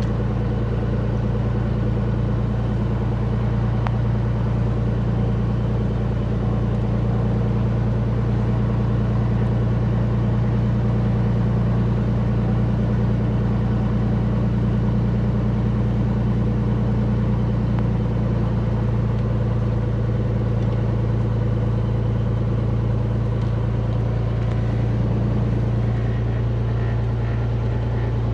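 Beechcraft Bonanza's piston engine idling steadily on the ground, a low even drone that holds the same pitch and level throughout, heard from inside the cabin. The engine was started only about half a minute earlier and is warming up.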